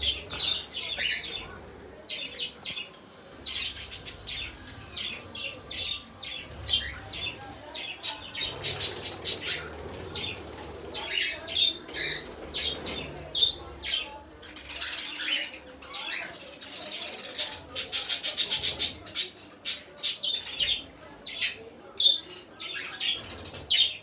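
Pet parrot making short chirps throughout, with two runs of rapid clicking, one about a third of the way in and one past the middle.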